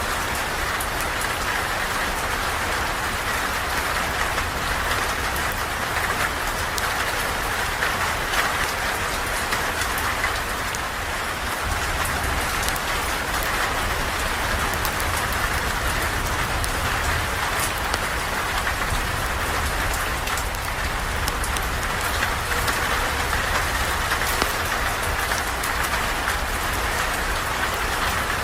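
Steady rain falling, with a low rumble underneath and many fine scattered ticks.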